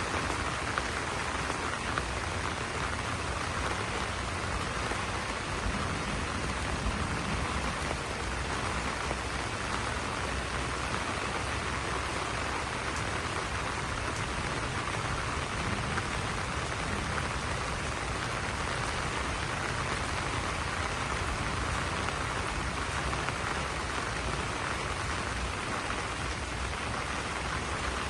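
Steady rain falling on banana leaves, an even, unbroken wash of drops.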